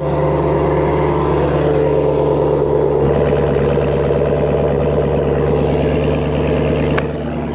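2016 Chevrolet Camaro SS's 6.2-litre LT1 V8 running loudly at a steady speed through a loud exhaust.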